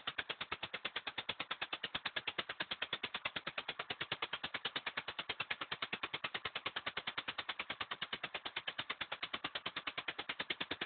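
Volvo 240 engine running roughly just after a cold start, its exhaust pulsing in a rapid, even chuffing of about ten beats a second. It runs with a hell of a shake that the owner can't explain and later puts down to a spark plug he might have hurt.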